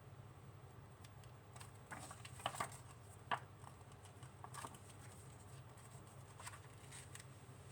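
Faint handling noises: a scatter of soft clicks and crinkles, the loudest few about two and a half to three and a half seconds in, over a low steady room hum.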